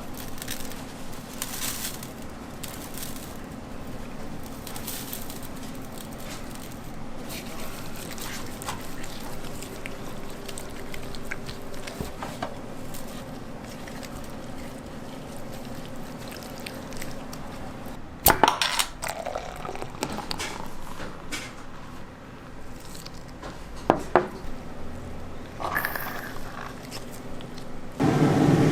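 Kitchen preparation noise: wet handling and pouring sounds over a steady background hum, broken by sharp clattering knocks about eighteen and twenty-four seconds in.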